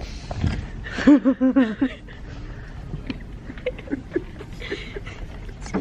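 A person laughing in a short run of pulses about a second in, followed by scattered light clicks and knocks.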